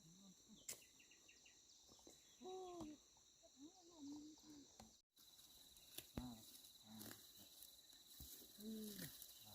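Insects trilling steadily in a thin, high, continuous drone, with a few faint, brief voice calls in the distance. The sound cuts out completely for a moment about five seconds in.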